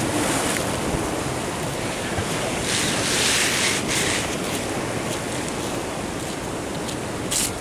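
Ocean surf washing in, a steady rushing hiss that swells for about a second a few seconds in, with wind buffeting the microphone. A short sharp click near the end.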